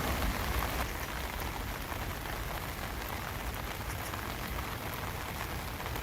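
Steady rain falling, an even hiss with many small drop ticks and a low rumble beneath.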